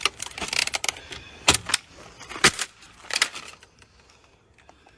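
Irregular sharp clicks and clattering knocks, several in quick succession, thinning out about three and a half seconds in.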